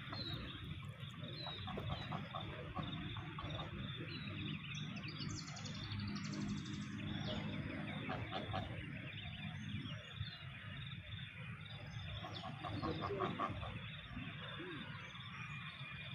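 Birds calling and chirping over a steady outdoor din, with a louder call about five to seven seconds in.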